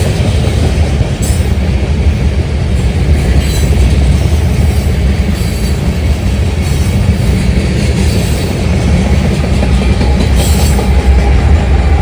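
Train rolling past: a steady, loud low rumble of its cars on the rails, with a few brief high-pitched screeches from the wheels.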